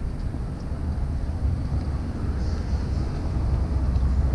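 Small engine of a motorized bicycle running steadily while riding, a low even rumble mixed with wind noise on the microphone.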